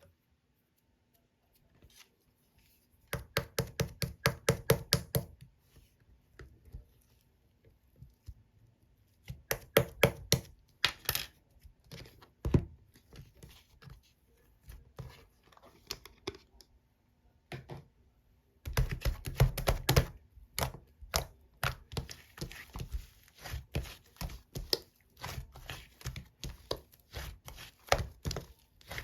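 Slime being squeezed and pressed by hand, making runs of rapid sharp clicks, about six a second, with quieter pauses between the runs.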